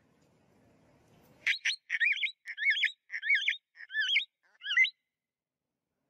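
A bird calling in a quick run of about seven short whistled chirps, each swooping up and down in pitch, starting about a second and a half in. A faint low rustle comes before them.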